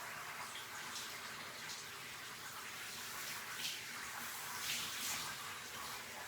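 Shower water running steadily as a dog is rinsed, with a few brief louder splashes in the second half.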